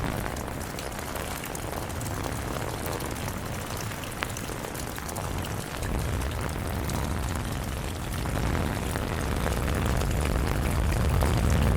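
Steady rain pattering, under a deep low rumble that swells over the second half.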